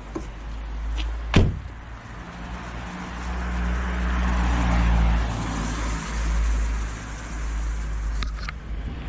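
A sharp knock about a second in, then a vehicle passing by, its noise swelling and fading over a few seconds.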